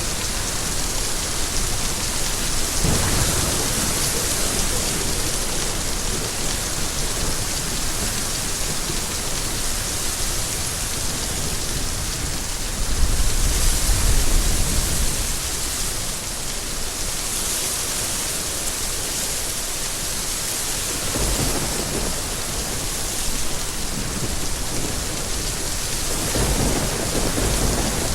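Steady rain falling, with low rumbles of thunder swelling several times, the loudest a little under halfway through.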